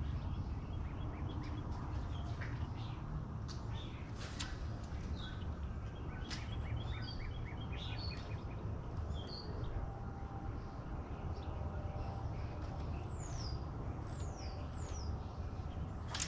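Several birds chirping and calling, with a quick run of repeated notes in the middle and three quick falling whistles near the end, over a steady low rumble. A few sharp clicks.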